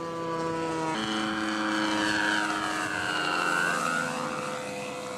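Radio-controlled scale model airplane's engine running in flight, a steady propeller drone that grows louder towards the middle as the model passes, its pitch gliding down and back up before it settles again.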